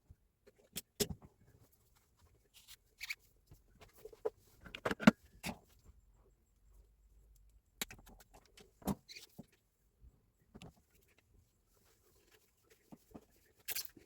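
Scattered clicks, clinks and knocks of tools and hard parts being handled, the loudest cluster about five seconds in, with quiet gaps between; no motor is running.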